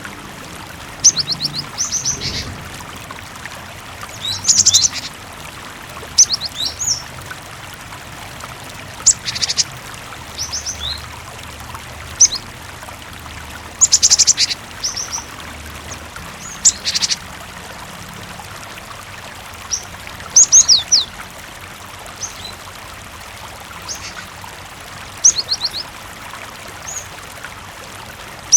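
Cinereous tit (gelatik batu) calling in short high chirps and quick runs of notes, every second or two, over a steady hiss of running water.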